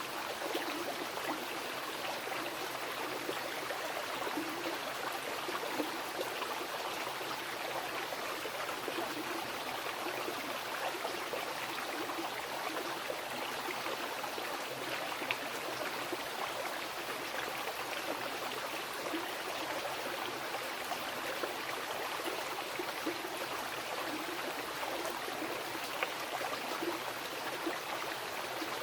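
Mountain river rushing and splashing steadily over rocks.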